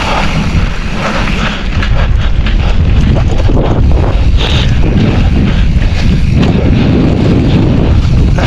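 Wind buffeting the microphone with a heavy low rumble, over the clatter of a mountain bike riding fast down a rough dirt trail: tyres over stones and ruts, with frequent knocks and rattles from the bike.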